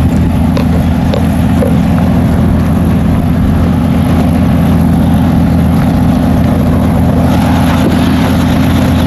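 Helicopter running on the ground: a loud, steady drone of engine and rotor.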